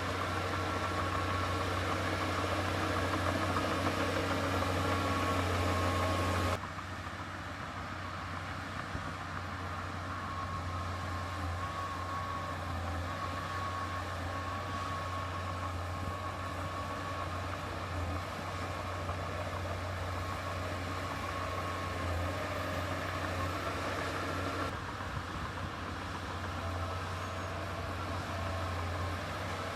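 Diesel engine of heavy earthmoving equipment running steadily with a low hum and a faint whine. The sound drops abruptly in level about six and a half seconds in and changes again near the end.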